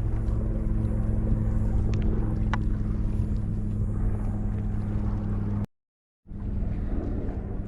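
An engine running with a steady low drone, broken by a sudden half-second dropout near the end before it carries on.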